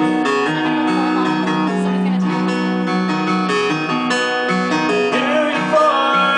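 Acoustic guitar strumming steady chords in an instrumental passage between sung lines of a pop-rock song.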